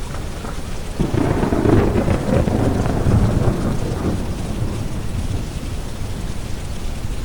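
A roll of thunder breaks in suddenly about a second in, rumbling and crackling for a few seconds before fading back. Underneath is a steady bed of deep brown noise and rain.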